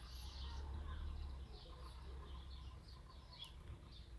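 Faint bird chirps: many short, high calls repeating, over a low steady background rumble.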